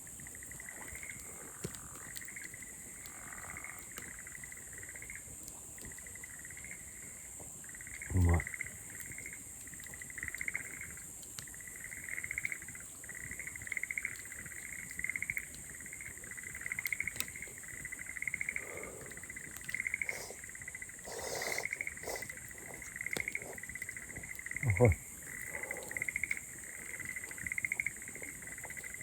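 Night insects calling: a steady high-pitched trill with a cricket's chirp repeating about once a second. A person makes two short low grunts, about a third of the way in and near the end, and these are the loudest sounds.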